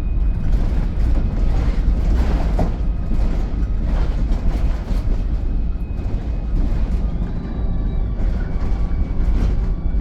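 VDL SB200 Wright Pulsar 2 single-deck bus heard from on board while under way: a heavy, steady low drone with several thin whining tones over it and brief swells of road noise. A higher whine comes in about three quarters of the way through.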